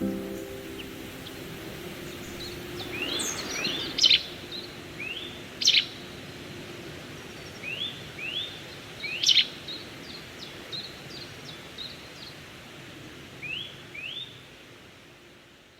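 Outdoor birdsong: short, high, rising chirps repeated in small groups, with three sharper, louder calls about four, six and nine seconds in.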